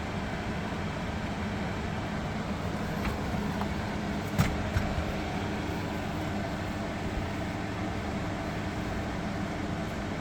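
Window air conditioner running on its fan only, before the compressor has kicked on, as a steady blowing hum with a low drone beneath. A short knock sounds about four and a half seconds in.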